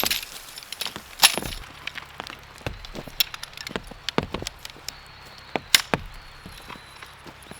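Sharp wooden knocks and cracks: four loud strikes spaced a second or two apart, among lighter taps and clicks.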